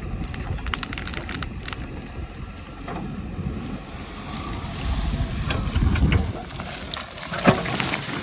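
JCB 3DX backhoe loader's diesel engine running steadily at work, with bursts of clattering knocks about a second in and again in the last few seconds.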